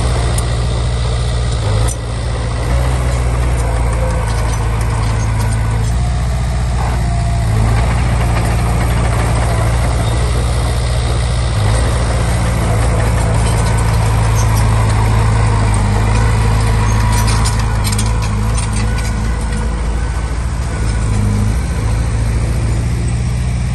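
Komatsu D20P crawler bulldozer's diesel engine running steadily, with a few light clicks about three-quarters of the way through.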